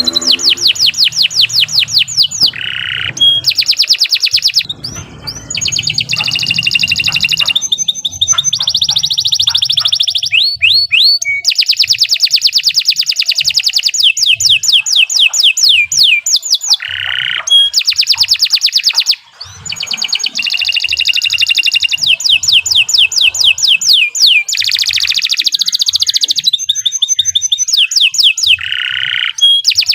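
Domestic canary singing a long, unbroken song: fast trills and rolls of rapidly repeated notes, each run lasting a second or two before switching to a different trill, with short swept notes in between.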